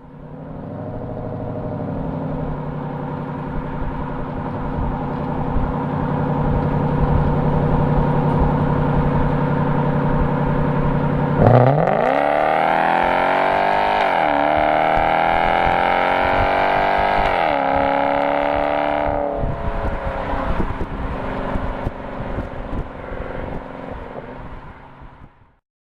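Lexus V8 exhaust running at a steady low engine speed. About halfway through it accelerates hard, the pitch climbing with two brief drops like upshifts. It eases off and fades out near the end.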